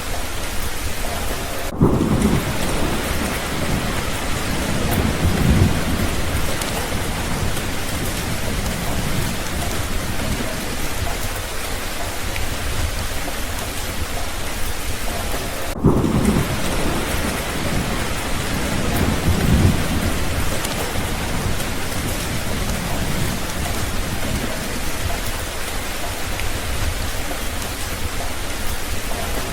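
Steady rain falling, with low rolls of thunder rumbling in several times.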